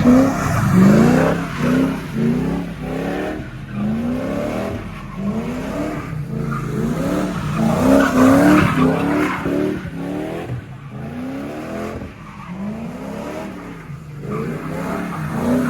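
Car engine revved again and again in quick rising surges, about one a second, with tyres squealing as the car spins its wheels.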